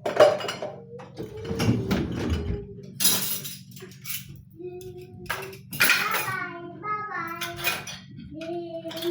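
Dishes and cutlery clinking a few times, with a baby's voice between the clinks.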